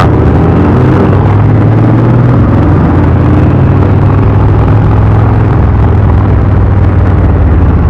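Indian V-twin motorcycle engine droning steadily at cruising speed, with rushing wind and road noise.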